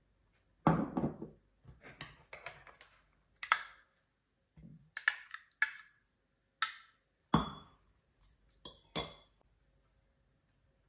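Dishes and glassware clinking and being set down: a dozen or so separate knocks, each with a short ring, the loudest about a second in and again about seven seconds in.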